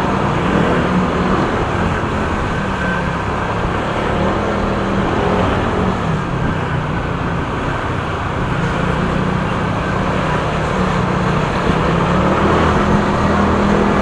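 Motorcycle engine running while riding in traffic, with steady road and wind noise; the engine's low hum rises and falls slightly.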